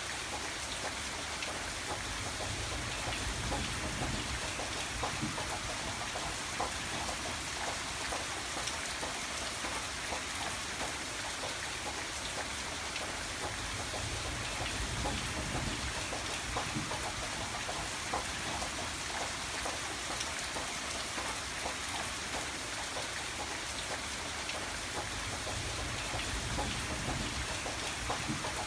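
Steady rain falling on a surface, many individual drops pattering over an even hiss. A low rumble underneath swells and fades about every ten seconds.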